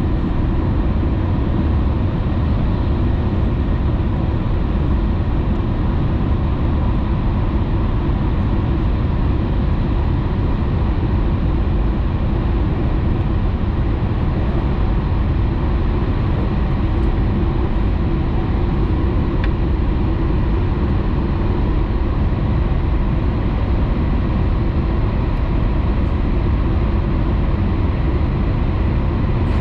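Steady rumble and rush of a Shinkansen train running at speed, heard inside the passenger cabin.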